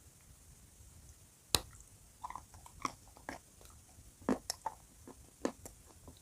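Dry chalk coated in blue clay paste being bitten and chewed, close up. A sharp, loud crack comes about a second and a half in, followed by irregular crisp crunches.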